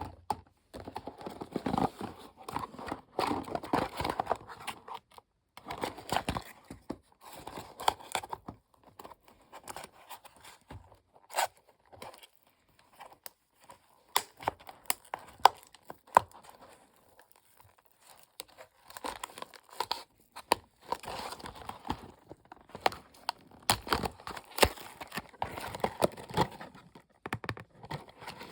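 Packaging being torn open and handled by hand: tearing, rustling and crinkling in irregular bursts, with sharp clicks, and a quieter stretch about midway.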